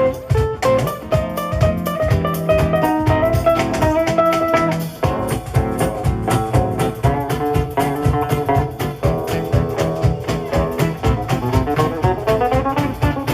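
Jazz band playing a fast tune, with guitars carrying the melody over an even, driving rhythm.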